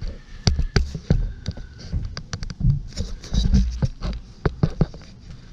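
Irregular clicks, knocks and scrapes of a metal exhaust pipe being handled, with low thumps between them.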